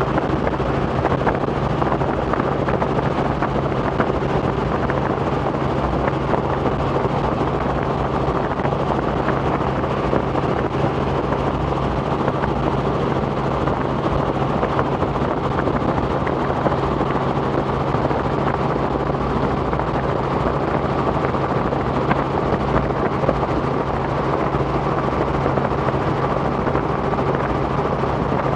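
Robinson R44 helicopter in steady cruise flight: its engine and rotors give a loud, unchanging drone with a steady low hum.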